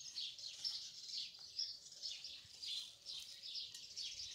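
Small birds chirping, a quick run of short high chirps, several a second.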